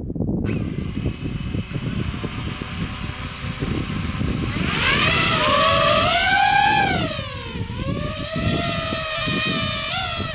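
Racing drone's electric motors whining as the throttle is worked. The pitch climbs steeply about halfway through, peaks, drops sharply about three seconds later, then holds lower.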